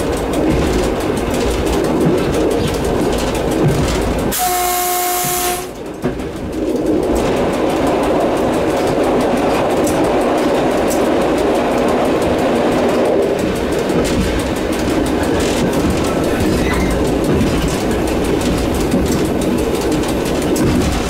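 EN57 electric multiple unit running along the track with steady rolling noise in the driver's cab. About four seconds in, a single short horn blast of about a second and a half.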